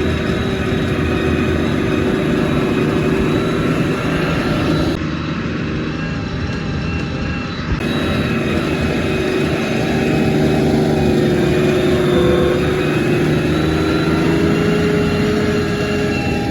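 Tank engine running loud and steady, its pitch rising and falling as it drives.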